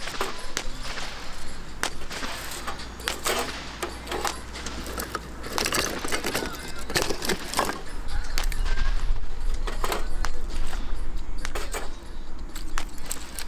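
Scattered clinks, clicks and knocks of small hard objects being handled, with rustling between them. A low rumble comes in about eight seconds in and fades shortly before the end.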